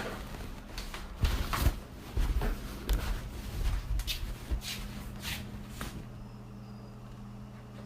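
Irregular knocks and rustling of things being handled and moved about, giving way about six seconds in to a steady low hum.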